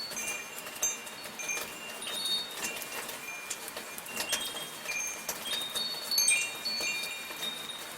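Metal wind chimes ringing irregularly, with many overlapping high, clear tones at several pitches, over the soft steady patter of light rain.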